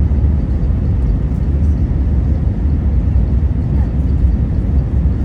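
Airbus A321neo cabin noise in flight: a steady low rumble of the Pratt & Whitney PW1100G geared turbofans and airflow past the fuselage.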